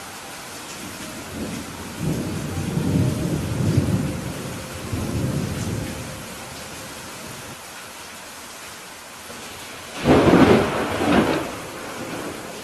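Steady rain with thunder: a low rolling rumble builds about two seconds in and fades by six, then a sudden, louder clap of thunder breaks near the end, with a second peak just after.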